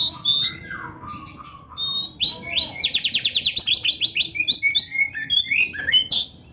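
Oriental magpie-robin singing a varied song of whistled notes and glides, with a fast run of repeated notes, about eight a second, starting about two seconds in.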